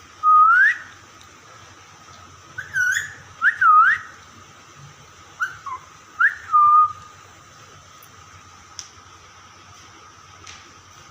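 Parrot whistling: a run of short, upward-sweeping whistled notes, some in quick pairs, which stop after about seven seconds.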